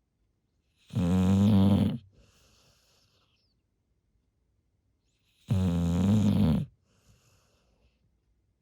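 Golden retriever snoring in its sleep: two loud snores about four and a half seconds apart, each about a second long, each followed by a faint breath out.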